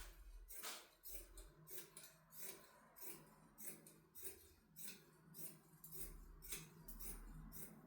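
Faint, irregular snips and rustles of fabric and thread being handled and cut by hand, two or three a second.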